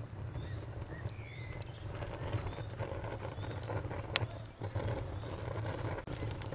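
Campfire crackling with scattered sharp pops, one louder pop about four seconds in, over a low steady rumble, while a cricket chirps in an even rhythm of about three to four chirps a second.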